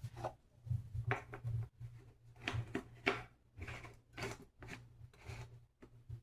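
A run of short, irregular rustling and scraping sounds, about a dozen in all, over a low steady hum.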